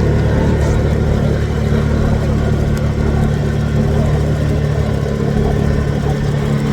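Motor vehicle engine running steadily, a constant low hum that does not change pitch.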